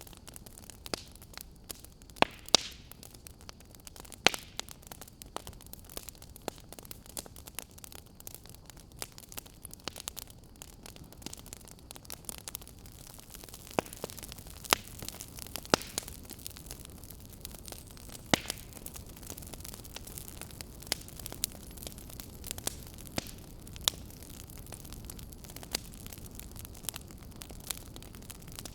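Wood fire crackling in a fireplace: irregular sharp pops and snaps over a soft steady hiss, a few pops louder than the rest.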